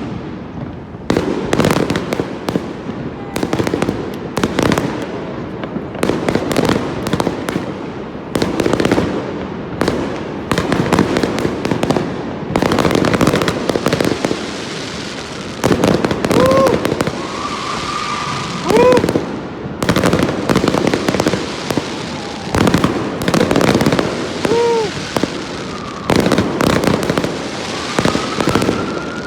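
Aerial fireworks display: shell bursts booming one after another in quick succession, over continuous crackling.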